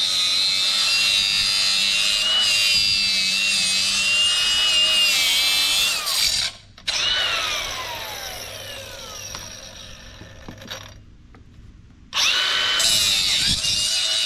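Handheld power tool cutting apart copper parts scrapped from appliances, running at high speed with a high whine. It stops about six seconds in, then spins down with a falling pitch. It starts up again about twelve seconds in.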